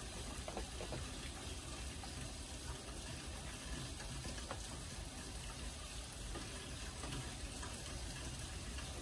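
Steady rain falling: an even hiss with small scattered taps of drops.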